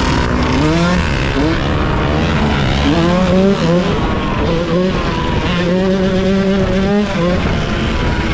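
Yamaha YZ125's 125 cc two-stroke single-cylinder engine revving under way, its pitch climbing in short pulls again and again, then holding steady for a second or so near the end.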